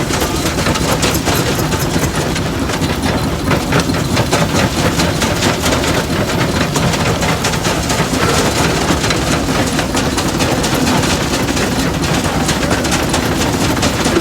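Antique engine-driven machinery running steadily, with a fast continuous clatter over a low engine drone.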